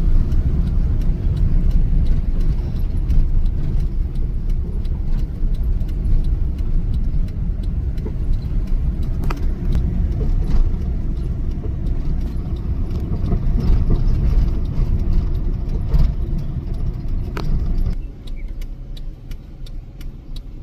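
Car road noise heard from inside the cabin while driving: a steady low rumble of tyres and engine with small clicks and rattles. The rumble drops off sharply about 18 seconds in.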